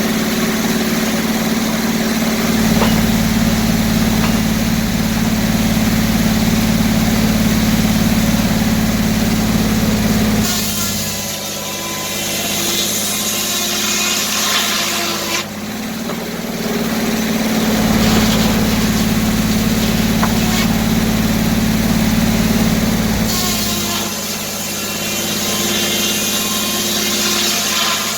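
Gas-engine-driven circular sawmill with a 48-inch inserted-tooth blade running steadily. Twice, for about five seconds each, a loud high-pitched rasp sets in and the engine note drops as the blade cuts through the log.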